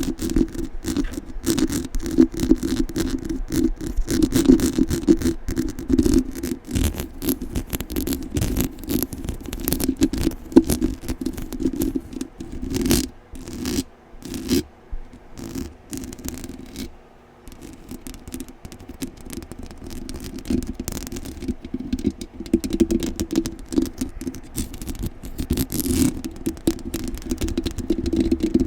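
Aggressive scratching directly on a microphone: fast, rough, irregular scrapes in a dense stream, loud and close, easing off briefly a little past halfway.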